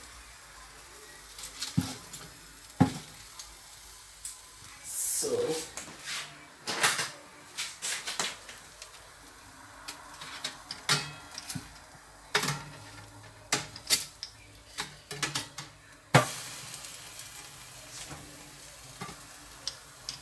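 Chicken and sliced potatoes sizzling in a pan, with a utensil repeatedly scraping and knocking against the pan as the food is stirred and turned.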